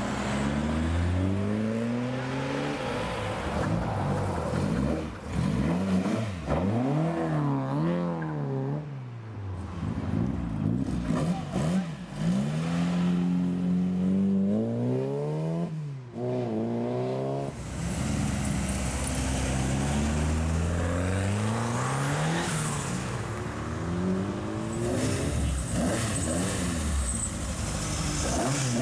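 Classic Ford cars pulling away one after another, their engines revving up and dropping back at each gear change, several times over.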